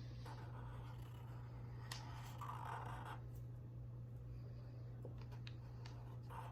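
Faint scratching of a pen drawing strokes on paper, strongest about two to three seconds in.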